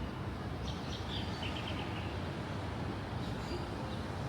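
Birds chirping, with a quick run of four or five short high notes about a second and a half in, over a steady low outdoor rumble.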